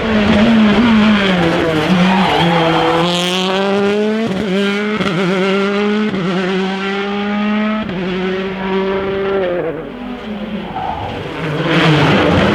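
Rally car engine at full throttle, climbing in pitch through at least two upshifts, with a short break at each gear change. The pitch drops about three-quarters of the way through as the car backs off.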